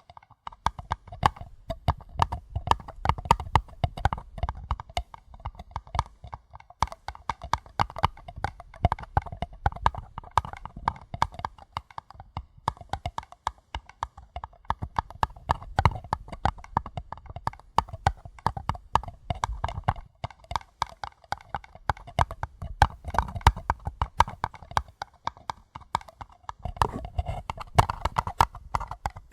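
Fingers tapping quickly and gently on paper cups, a rapid patter of light hollow taps several a second with short lulls.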